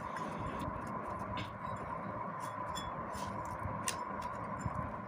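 Scattered light clicks and taps of small parts of a vacuum cleaner motor being handled during disassembly and cleaning, over a steady background hiss with a faint steady hum.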